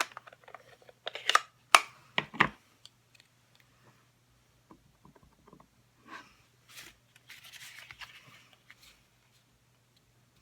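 Card-making supplies handled at a craft table: a quick cluster of sharp clicks and taps in the first couple of seconds, as of a bird stamp being inked and pressed, then softer rustling of paper later on.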